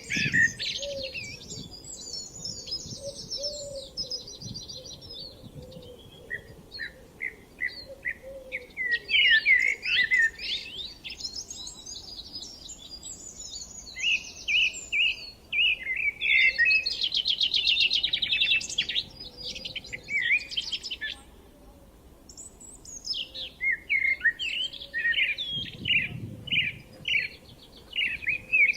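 Several songbirds singing together: overlapping chirps, quick trills and repeated high notes, with a brief lull about two-thirds of the way through. A brief low rumble near the end.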